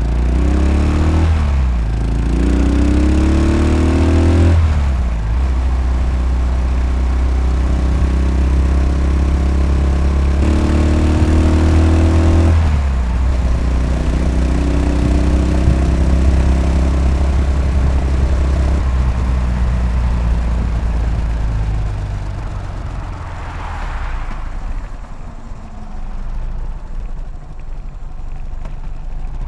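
Yamaha SR500's air-cooled single-cylinder four-stroke engine under way. It revs up and shifts up twice in the first few seconds, then runs at a steady cruising speed, and is rolled off near the end with a lower, quieter note as the bike slows.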